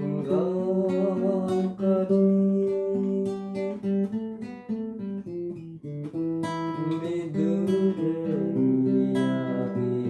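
Acoustic guitar playing a slow passage of a song, held chords changing about every second.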